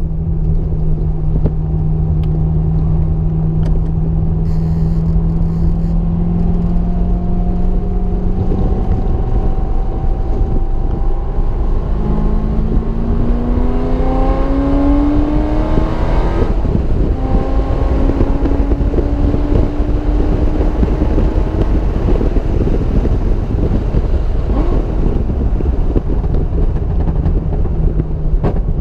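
Car engine at track-day pace under heavy wind and road rumble. The engine note holds fairly steady, then climbs in pitch under acceleration and drops suddenly at an upshift about halfway through, then rises again.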